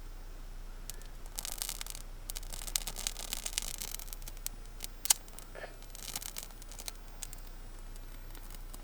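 Birch-bark tinder crackling and tearing as it is worked to light a damp campfire, in uneven scratchy bursts with one sharp snap about five seconds in.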